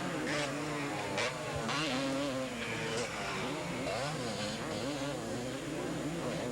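Two-stroke motocross race bikes running on the track, their engine pitch repeatedly rising and falling as the riders rev up and back off.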